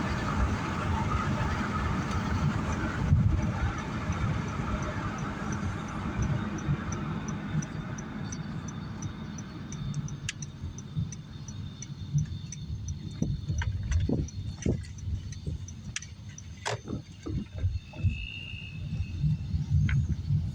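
Car moving with road and engine noise for about ten seconds, then settling to a low idle with scattered clicks and knocks. From about six seconds in, an even run of high ticks, about two or three a second, sounds over it.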